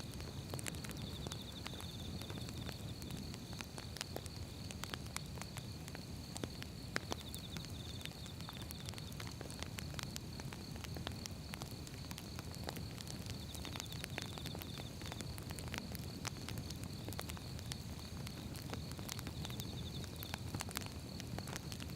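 Firewood burning with a steady low rumble and frequent irregular crackles and pops. A thin steady high-pitched tone runs underneath, with four short rapid trills.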